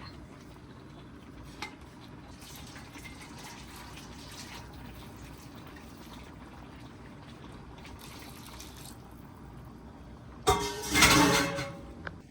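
A low, steady hiss from a pot of khichuri cooking on the stove. Near the end a loud, brief scrape and clatter as a spoon stirs the vegetables through the khichuri in the metal pot (dekchi).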